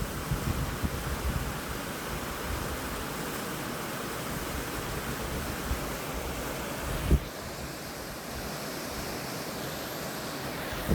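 Steady rain falling, an even hiss, with a single short thump about seven seconds in.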